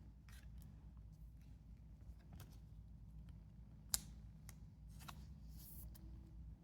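Faint handling of trading cards: scattered small clicks and rustles, with one sharper click about four seconds in.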